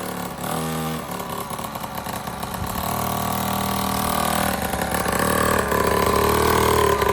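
A small pull-start kids' dirt bike engine running steadily, growing louder from about three seconds in.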